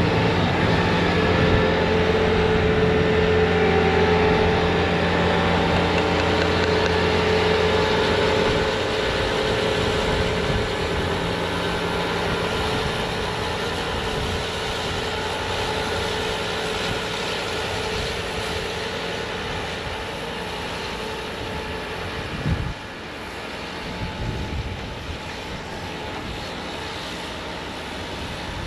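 Bobcat T66 compact track loader's diesel engine running under load with its snowblower attachment spinning, a steady machine drone over a broad rushing noise. It is loudest for the first eight seconds or so, then slowly grows quieter.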